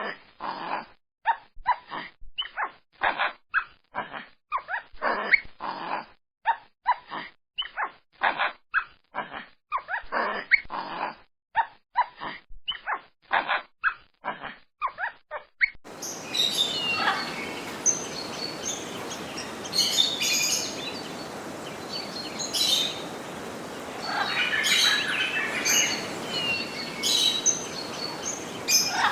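A dog barking rapidly over and over for about sixteen seconds, then birds chirping over a steady background hiss.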